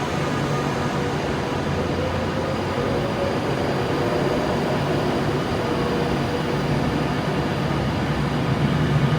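A train at a station, running steadily with a hum and a few held tones; it grows a little louder near the end.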